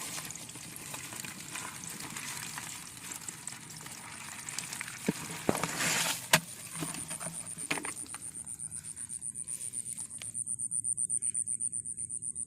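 Rain falling, with a few sharp clicks a little past the middle. From about halfway a high-pitched, rapidly pulsing insect call comes in and takes over as the rain noise fades away near the end.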